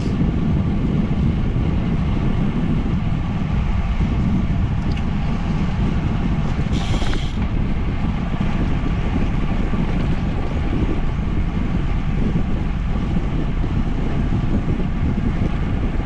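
Steady low rumble of wind buffeting the microphone while riding a bicycle at speed, with a brief high-pitched sound about seven seconds in.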